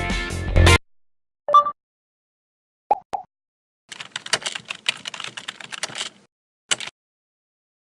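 Background music cuts off abruptly, followed by two brief pitched blips and then about two seconds of rapid, irregular clicking, like typing on a keyboard.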